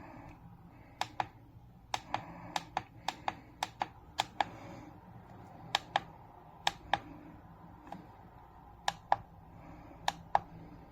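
Sharp clicks in an irregular run, some in quick pairs, over a faint steady low hum.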